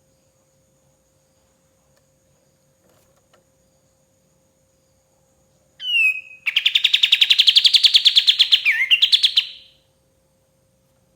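Kapas tembak bulbul singing: a short sharp falling note about six seconds in, then a fast rattling trill of about nine notes a second that lasts about three seconds, dipping in pitch near its end. A faint steady hum sits under it throughout.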